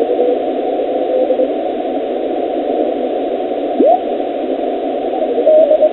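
Amateur radio receiver audio with the digital filters off: steady band hiss, with faint Morse code tones keying on and off, a brief sweeping whistle just before 4 s, and a stronger Morse signal near the end.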